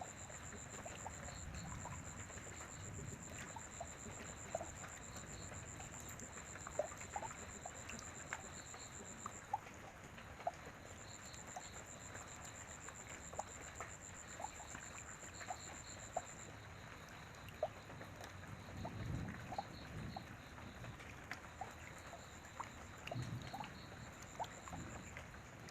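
Light rain: scattered drops tapping and dripping over a soft hiss, with a steady high-pitched tone that drops out and returns a few times, and a soft low rumble about three quarters of the way through.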